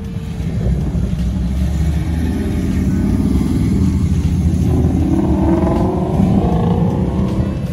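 Cars driving past with a steady low engine rumble. About five seconds in, one engine revs up, its pitch rising for a couple of seconds.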